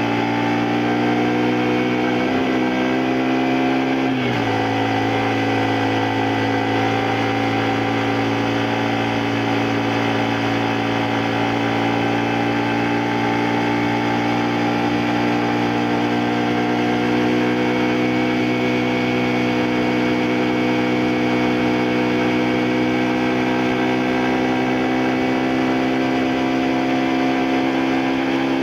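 A 2002 Honda Varadero 125's small V-twin engine running steadily while riding. Its note dips twice in the first few seconds, then holds steady with a slow rise.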